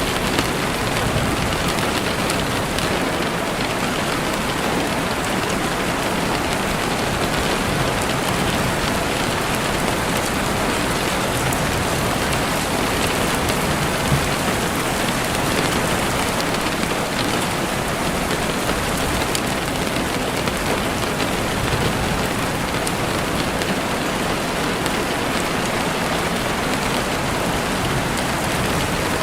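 Heavy rain falling steadily against a window, a dense even hiss with faint pattering drops.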